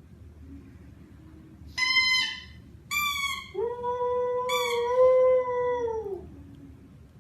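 A dog howling: two short high yelps, then a long, level howl of over two seconds that falls away at its end, with a higher yelp overlapping it partway through.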